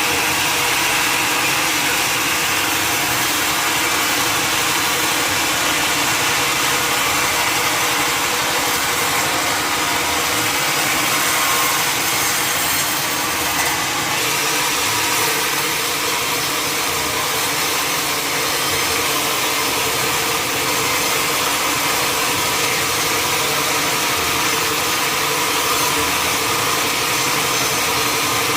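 Sawmill machinery running steadily: a motor-driven saw cutting wood, a continuous loud noise with a steady whine.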